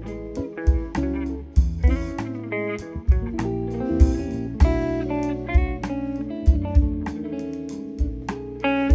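Live instrumental quartet music: guitar playing over bass, with sharp percussion strokes keeping the beat.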